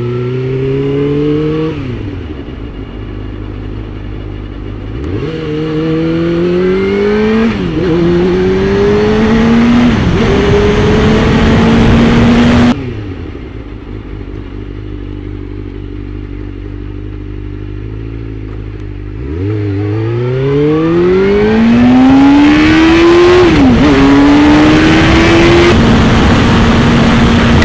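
Suzuki GSX-R600's inline-four engine accelerating through the gears, its pitch climbing and dropping back at each shift. About halfway through the throttle is closed and it settles to a low steady run for several seconds. It then pulls hard again through two more upshifts, with the rush of wind on the move.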